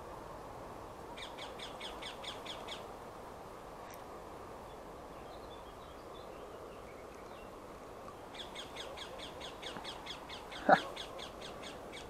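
A bird gives two runs of rapid, harsh chattering calls at about five a second, a short run early and a longer one of about three seconds near the end. A single sharp knock, the loudest sound, comes during the second run.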